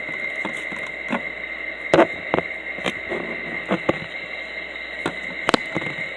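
Thick butter slime being poked and pressed by fingers, giving irregular soft sticky clicks and pops, with a steady faint high-pitched hum underneath.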